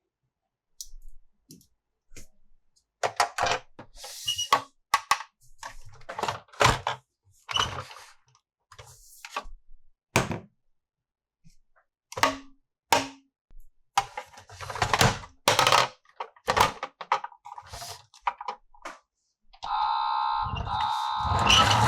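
Hard plastic toy parts clicking, snapping and knocking as they are unpacked and handled, in irregular sharp strokes. Near the end comes a louder sustained sound with several held tones, lasting about two seconds.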